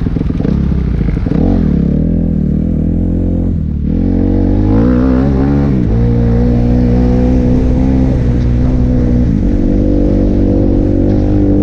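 Kawasaki KX250F four-stroke single-cylinder motocross engine heard from on board, its revs rising and falling as the bike is ridden. The revs drop just before four seconds in, climb steeply, then hold high and steady, with another brief dip a little past nine seconds.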